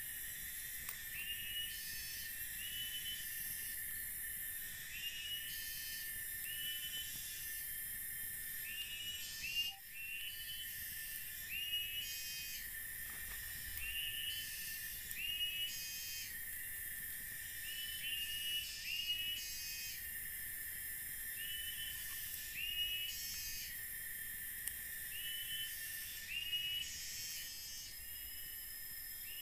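Forest ambience: a bird repeating a short whistled call about every second and a half, over a steady high-pitched insect drone.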